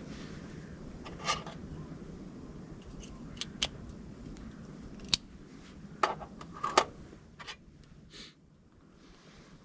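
A handful of sharp clicks and light clinks, as of small hard objects being handled, irregularly spaced over a low steady background noise that fades near the end.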